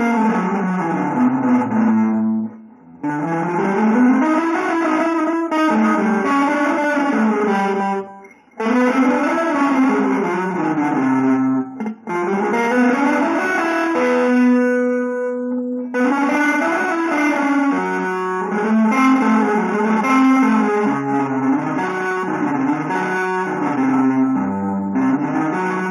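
Guitar playing quick single-note runs that climb and fall in phrases, with short breaks between them and one held note about halfway through.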